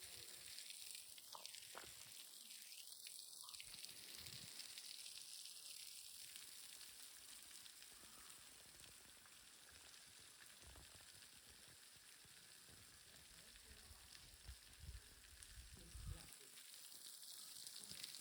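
Near silence with a faint steady hiss.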